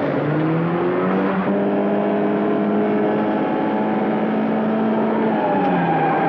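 Car engine under hard acceleration in a chase. Its pitch climbs during the first second, holds steady at high revs, then drops about five and a half seconds in.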